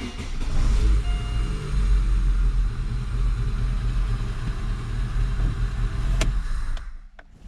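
Freshly rebuilt Daewoo Lanos petrol engine on its first start after assembly: the starter cranks it briefly, it catches about half a second in and runs steadily with a deep low rumble for about six seconds, then the sound cuts off near the end.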